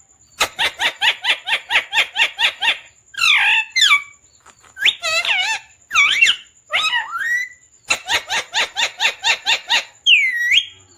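Pet parrot calling: two runs of quick repeated chirps, about five a second, with whistled calls that glide up and down between them.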